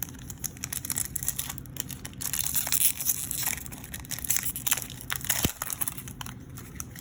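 Crinkly foil wrapper of a Yu-Gi-Oh! booster pack being crumpled and torn open by hand, a dense run of irregular crackles.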